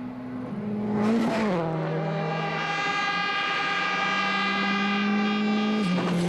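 A World Rally Car's engine running hard under acceleration, growing louder over the first second. Its note drops sharply about a second in, climbs slowly, then drops again near the end, with a brief burst of hiss at each drop.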